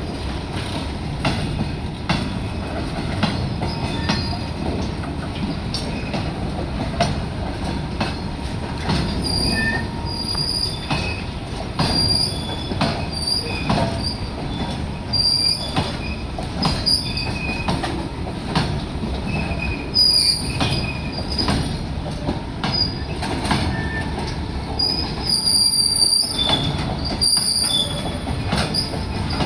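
Goods train wagons rolling slowly while shunting: the steel wheels give repeated short, high squeals, over irregular clanks and clicks from the rail joints and a steady rumble.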